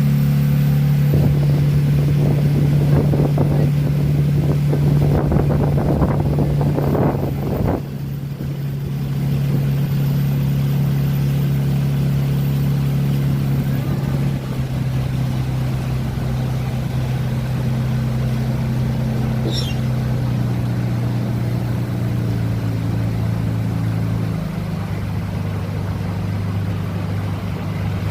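Motorboat engine running steadily, its hum dropping in pitch twice in the latter part. A rushing noise, from wind and water, sits over it for the first several seconds.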